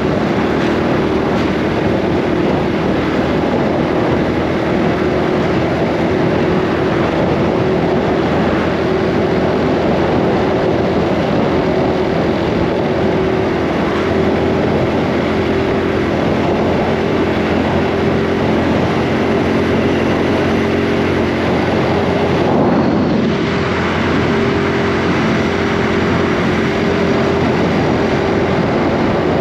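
Honda Super Cub C125's single-cylinder four-stroke engine and exhaust running steadily while riding. The engine note drops and picks up again a little over twenty seconds in.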